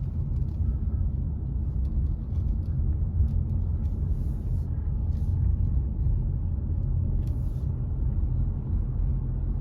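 A car driving along, a steady low rumble of engine and road noise, with a few faint clicks and brief hisses.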